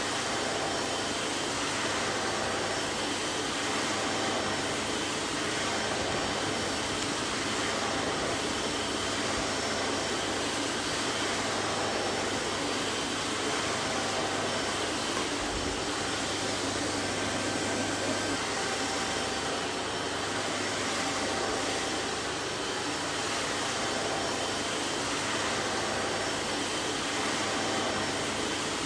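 Vacuum cleaner running steadily: an even rushing hiss of air with a faint steady whine and no change in speed.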